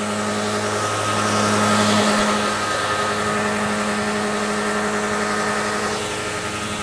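Mitsubishi Eclipse's 2.4-litre four-cylinder engine running steadily with apple juice in place of its engine oil and sand and rocks poured in. The tone shifts slightly about two seconds in, with a brief swell.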